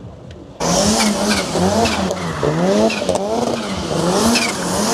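A vehicle's motor whine starts abruptly about half a second in, its pitch rising and falling over and over.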